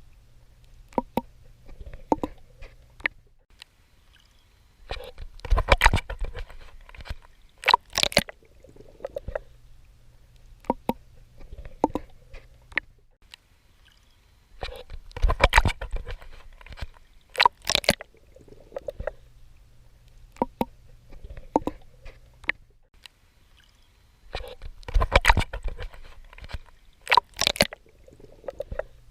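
A swimmer's strokes splashing and sloshing in sea water. The louder splashes come in pairs about two seconds apart, and each pair recurs about every ten seconds, with small watery clicks between.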